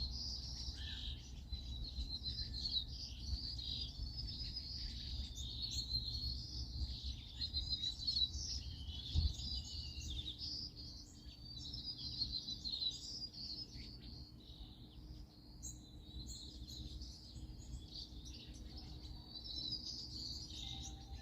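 Several small songbirds chirping and singing at once, a continuous chorus of quick, high overlapping calls, over a low steady rumble of outdoor background noise.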